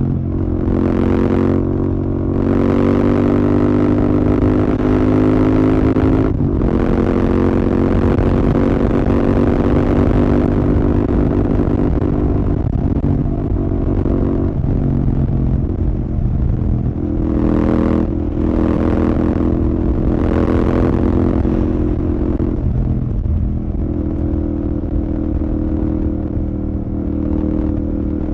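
Royal Enfield Continental GT 650's 648cc parallel-twin engine running through a Red Rooster aftermarket exhaust at steady cruising speed, its note breaking briefly about six seconds in, with several bursts of rushing noise over it.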